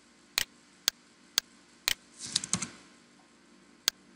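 A short, quick run of typing on a computer keyboard about two seconds in, set among single sharp clicks that fall on an even half-second beat.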